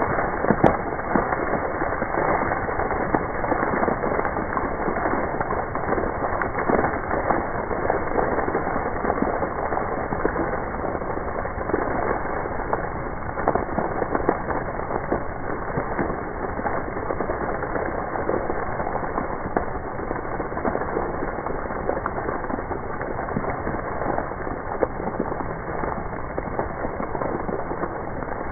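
Heavy rain pouring down, a steady dense hiss made of countless small raindrop taps on hard surfaces.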